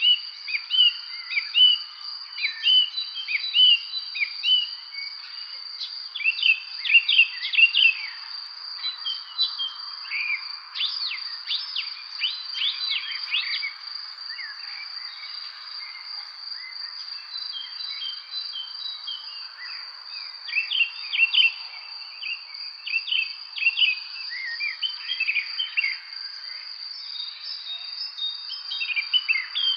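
Spring evening birdsong: several small birds chirping in quick, varied notes, thickest in the first half and again near the end. Under them runs a steady, unbroken high insect trill like a cricket chorus.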